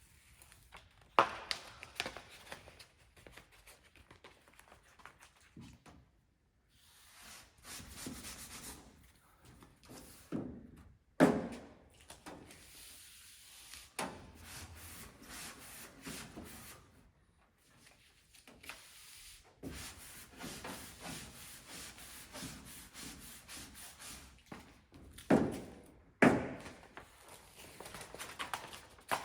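Intermittent rubbing and scraping, broken by several sharp knocks: the loudest about a second in, one about 11 seconds in, and two close together near the end.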